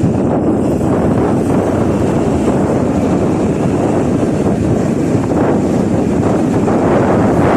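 Wind blowing over the microphone, a steady loud rushing noise.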